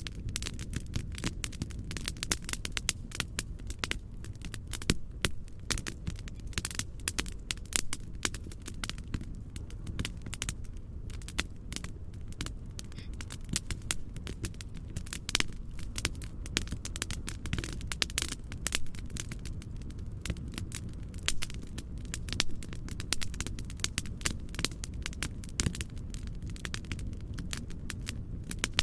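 Wood fire crackling steadily, with many irregular sharp pops and snaps over a constant low rumble.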